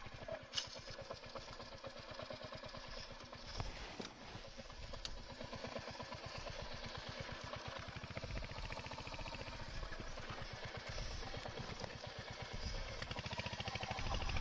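Motorcycle engine idling with a steady, rapid beat, getting louder near the end, with a sharp click about half a second in.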